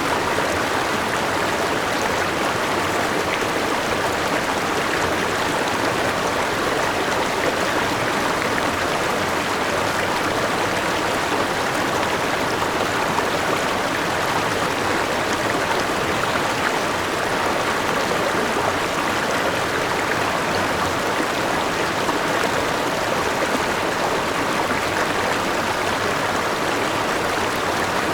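River water rushing and splashing over rocks at a small waterfall, a steady even rush with no change.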